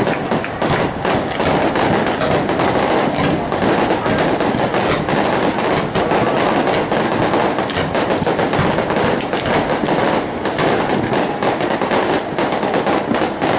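Fireworks going off in a dense, rapid crackle of many small reports, kept up without a break.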